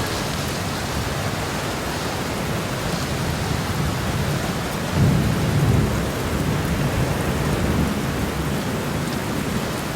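Steady rain with a low roll of thunder swelling about halfway through.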